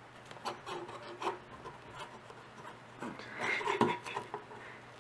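Small scrapes, rubs and clicks of hands and a screwdriver working on a hard drive's controller board, getting busier and louder about three to four seconds in.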